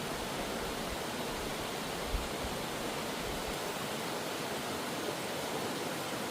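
Steady rushing of flowing stream water, unchanging throughout, with one faint low thump about two seconds in.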